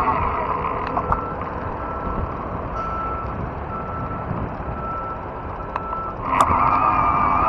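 Vehicle backup alarm beeping, one steady tone repeated about once every 0.8 seconds, over low rumbling wind and tyre noise. Near the end a louder wavering whine comes back in.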